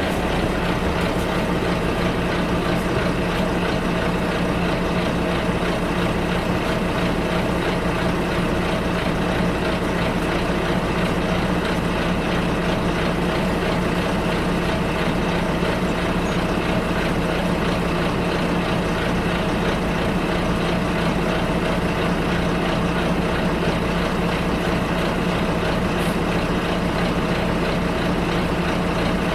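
City bus engine running steadily, heard from inside the passenger cabin: a constant low hum that holds one pitch throughout.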